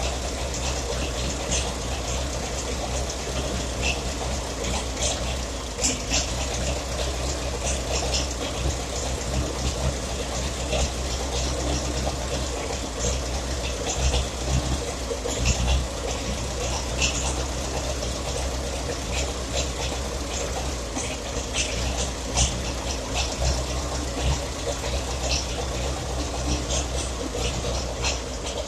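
Massey Ferguson Super 90 gasoline tractor engine running unevenly, a steady low hum broken by irregular sharp pops and ticks. It is running poorly after carburetor and fuel-line work, not yet running right.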